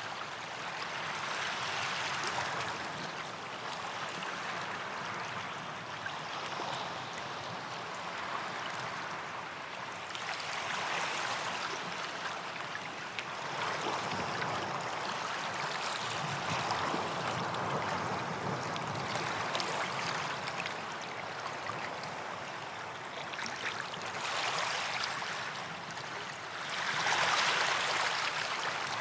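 Small sea waves washing in and drawing back on a sandy beach, the surf swelling and fading every few seconds. The biggest wash comes near the end.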